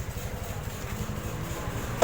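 Motorcycle engine running, with a steady, fast low pulsing.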